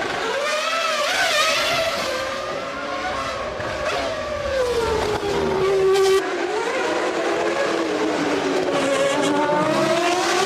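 Formula One race car engine at high revs, its pitch sweeping up and down. The pitch falls steadily to a low point about six seconds in, as the car brakes and shifts down for a corner, then climbs again as it accelerates away.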